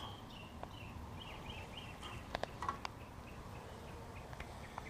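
Quiet outdoor ambience with a small bird's short, high chirping notes in quick runs, and a few light clicks from handling about halfway through.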